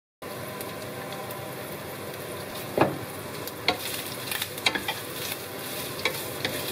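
Chicken pieces sizzling as they fry in melted margarine in a frying pan, the steady sizzle starting suddenly a moment in. A wooden spatula stirs them, knocking and scraping against the pan several times, loudest about three seconds in.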